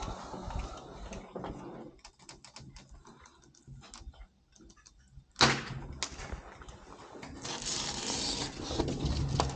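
Panel-fitting work on a wall: scattered clicks and knocks, one sharp bang about five seconds in, then a longer rough scraping noise near the end.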